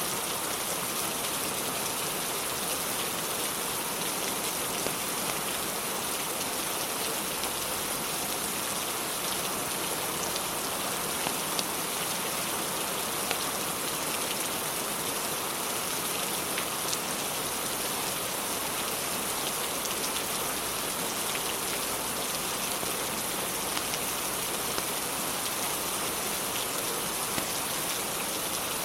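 Steady rain, a dense even hiss, with occasional sharp crackles from a wood fire in a fireplace.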